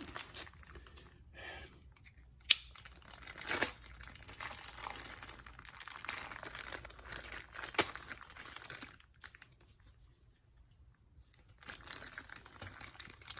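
Parts packaging being crinkled and torn open by hand, with a few sharp clicks. It goes quiet for about two seconds near the end, then the crinkling starts again.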